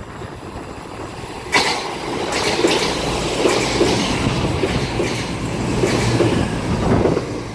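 A CrossCountry Class 221 Voyager diesel-electric multiple unit passing through the station without stopping. The noise rises suddenly about a second and a half in as the train arrives alongside, then carries on as a rumble with its wheels clattering rhythmically over the rail joints.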